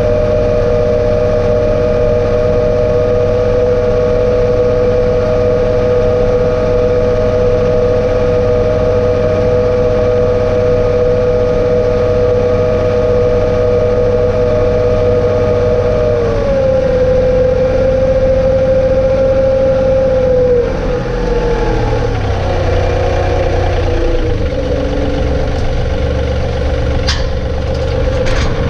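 John Deere 2032R compact tractor's three-cylinder diesel running steadily with a high whine. Its pitch drops in steps about two-thirds of the way through as the engine slows. A couple of sharp clanks come near the end.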